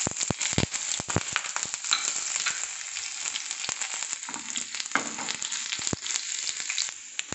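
Sliced garlic, dried red chillies and whole spices sizzling and crackling in smoking-hot mustard oil in a frying pan, the tempering for a curry. A steady sizzle runs throughout, with many sharp pops and crackles.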